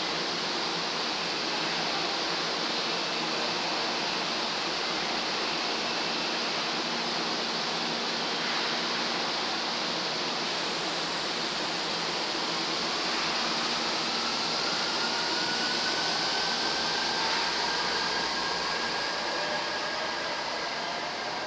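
Electric train running: a steady rushing noise, with motor whines rising slowly in pitch over the second half as it speeds up.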